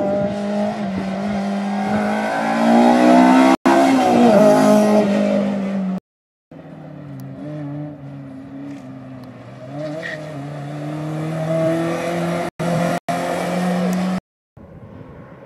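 Car engines revving up and falling back over and over as the cars drive a cone slalom: first a blue hatchback, then a BMW 3 Series (E36) coupé. It is loudest a few seconds in, and the sound cuts out abruptly for moments several times, about a third of the way in and near the end.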